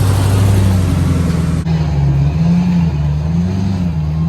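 A vehicle engine running loudly and revving lightly, its pitch wandering up and down. The sound changes abruptly about a second and a half in.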